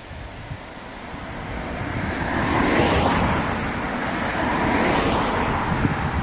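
A vehicle passing on the road, its tyre and engine noise swelling to a peak about three seconds in and easing off after about five, over low wind buffeting on the microphone.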